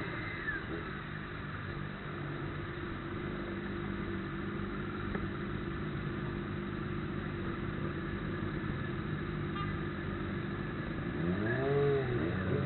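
Road traffic: vehicle engines running steadily, with one vehicle passing close near the end, its engine pitch rising and then falling.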